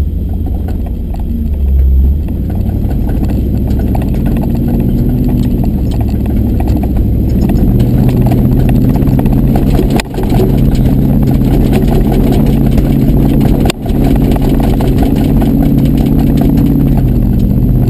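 Truck engine running at a steady pitch while driving a rough trail, with constant rattling and clattering of the vehicle over the bumps.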